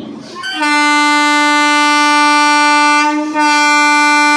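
Indian Railways train horn sounding two long, loud blasts of one steady pitch, with a brief break between them about three seconds in.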